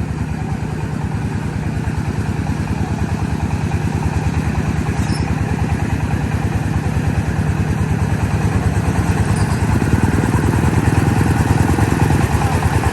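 Công nông farm vehicle's single-cylinder diesel engine running steadily with a rapid chugging beat, getting gradually louder.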